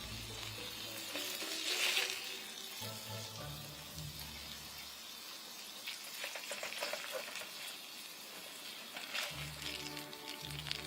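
Hamburg steak patties sizzling over a wood fire, a steady hiss with occasional sharp pops and crackles. Soft background music plays at the start, in the middle and near the end.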